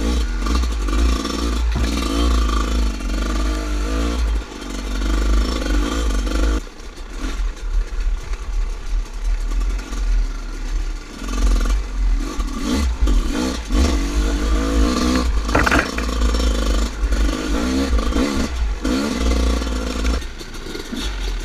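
Dirt bike engine being ridden hard over rough ground, its revs rising and falling repeatedly as the throttle is worked, with a heavy low rumble underneath.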